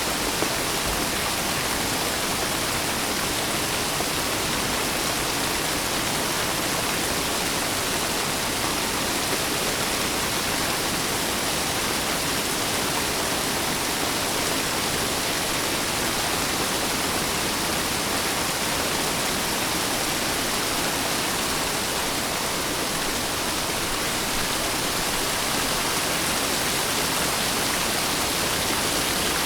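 Steady heavy rain: a continuous, even hiss of falling water.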